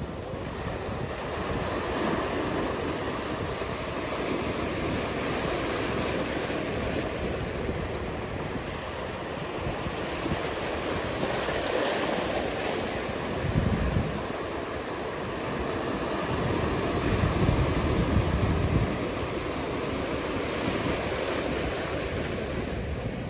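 Ocean surf breaking and washing ashore in a steady wash, with wind buffeting the microphone. Two stronger low rumbles come about two-thirds of the way through.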